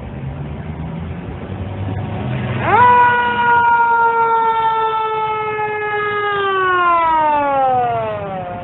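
Fire engine siren winding up sharply about two and a half seconds in, holding, then winding slowly down in pitch near the end, over a low rumble of traffic.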